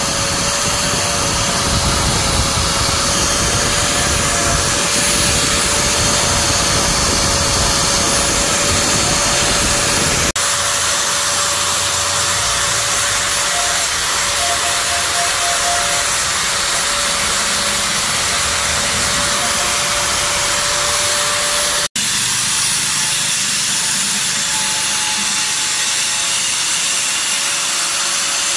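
A power tool running steadily: a continuous harsh, hissing grind over a constant whine. The sound changes abruptly about ten seconds in, losing much of its low rumble, and breaks off for an instant about twenty-two seconds in.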